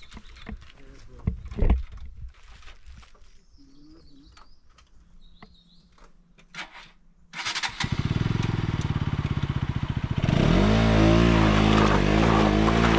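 Motorcycle engine started about seven seconds in, running with a fast, even pulse, then revved from about ten seconds with its pitch rising and falling. Before it starts there are only scattered knocks and clicks.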